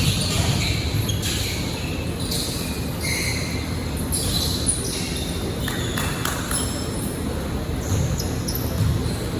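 Sounds of an indoor basketball game: the ball bouncing on the court and many short, high sneaker squeaks, over a steady low rumble of the hall.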